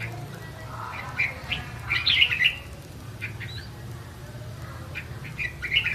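Red-whiskered bulbul singing: short bursts of quick, bright chirping phrases, one about a second in and another near the end.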